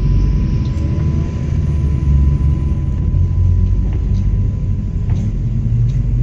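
MAZ-103 city bus under way: steady low engine and road rumble, with a few faint rattles now and then.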